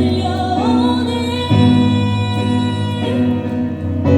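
A woman singing a Korean pop ballad live, finishing a line on a held note, over instrumental accompaniment that carries on through the pause after it.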